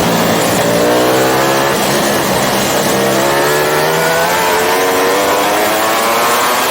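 Ducati Panigale endurance race bike's engine under hard acceleration, heard onboard. The revs climb, drop back at an upshift and climb again, about three times, over a steady rush of wind.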